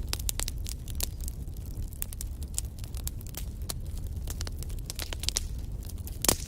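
Wood fire burning in a fireplace: a steady low rumble of flames with irregular sharp crackles and pops from the logs, the loudest pop near the end.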